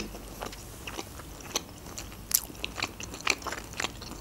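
Close-miked chewing of a mouthful of food: irregular sharp clicks and mouth sounds, a few louder ones a little past the middle.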